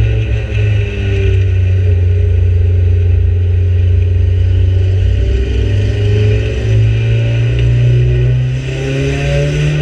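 Micro banger stock car's engine heard from inside the cabin, running hard under racing load. Its pitch climbs from about seven seconds in as the car accelerates.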